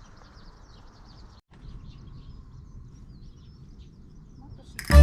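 Small birds chirping repeatedly over a faint low outdoor background, with a brief break about a second and a half in. Loud music cuts in just at the end.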